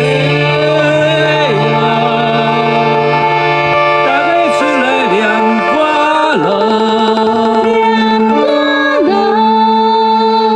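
Music: an ocarina ensemble playing a melody of held, sometimes bending notes over a steady low note.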